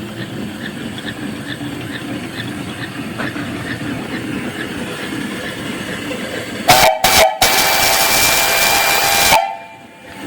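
Home-built steam donkey yarder running steadily under steam; about two-thirds of the way in its three-chime steam whistle gives two short toots, then one long blast of about two seconds that cuts off sharply.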